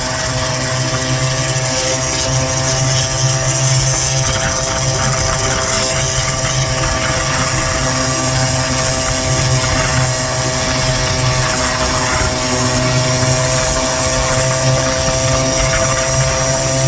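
Small gas scooter engine running at a steady cruising speed, an even buzz that holds its pitch, with low rumble from the ride under it.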